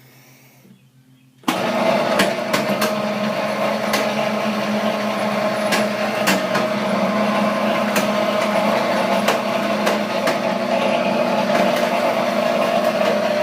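Chinese-made sugar cane press switched on about a second and a half in, its motor running with a steady hum and irregular sharp ticks. The noise is an unexplained fault that the owner places low in the machine, not up at the rollers.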